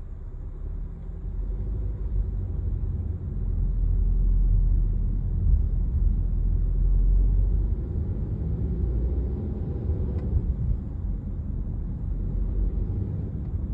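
Honda CR-V's 1.5-litre turbocharged engine and road noise heard from inside the cabin while driving, a steady low rumble that swells louder for a few seconds in the middle. No ticking stands out, matching the owner's finding that the valve tick is gone for now after the oil treatment.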